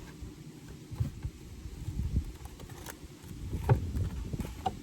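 Irregular low knocks and clunks with a few sharper clicks, from a beekeeper moving about and handling wooden hive equipment.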